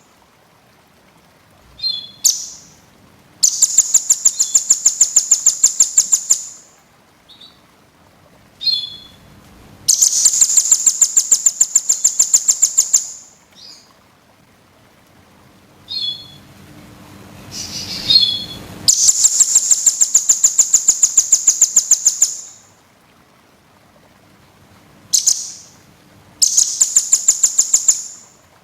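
Small songbirds calling in a masteran tutor recording. Four rapid, high trills of about three seconds each are separated by short single chirps.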